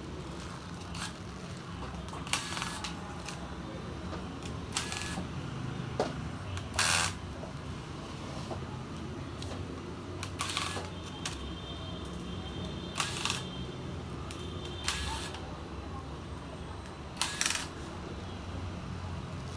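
Scattered sharp clicks and short scrapes of small plastic and metal laptop parts being handled and pried during a keyboard replacement, about nine at irregular intervals, over a steady low hum.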